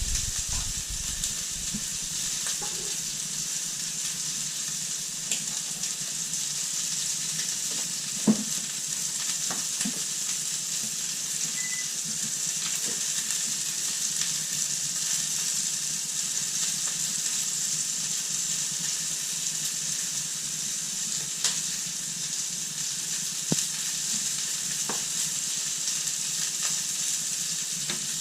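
Food sizzling steadily in a frying pan, with a few sharp clicks and knocks from the pan now and then.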